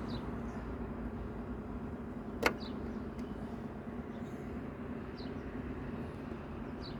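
Steady low hum with one sharp click about two and a half seconds in.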